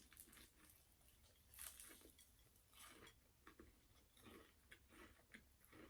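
Faint, close chewing of a bite of KFC fried chicken drumstick: soft irregular wet mouth sounds with small crunches of the breaded skin.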